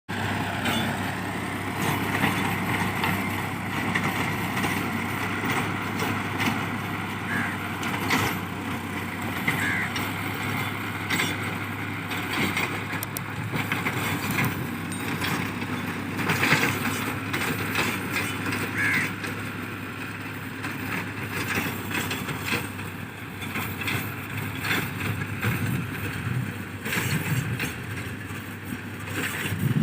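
Tractor engine running steadily, with a low even hum under a broad rumble of road noise.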